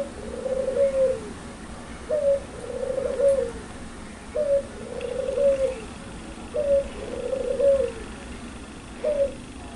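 Puter pelung dove cooing loud and clear: each phrase is a short rising note followed by a longer coo that drops at its end, repeated about every two seconds, four times, with a lone short note near the end.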